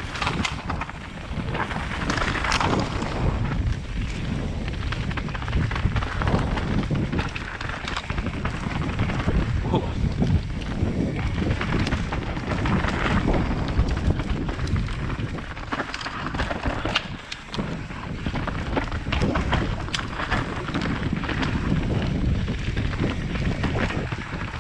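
Wind buffeting the microphone over the continual knocks and rattles of a mountain bike descending a rough, loose trail.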